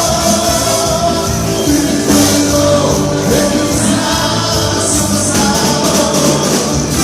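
Live band music with a singer, loud and steady.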